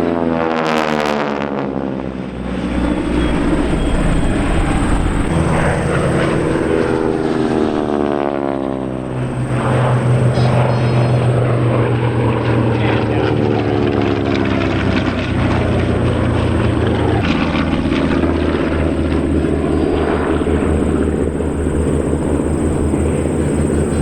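North American T-6 Texans' Pratt & Whitney R-1340 radial engines and propellers flying past. The pitch drops sharply about a second in and falls again more slowly over the next several seconds as the planes go by, and the radial drone then carries on steadily.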